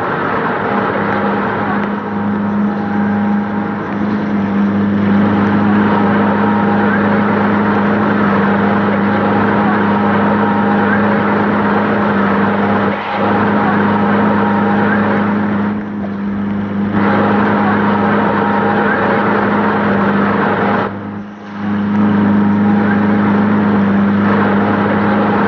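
An engine running steadily at one speed, a constant low hum that dips briefly three times.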